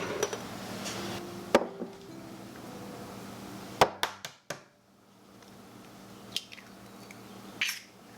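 A handful of sharp knocks and clinks of dishes and utensils being handled, spaced irregularly with a quick cluster of them about four seconds in, over a steady low hum.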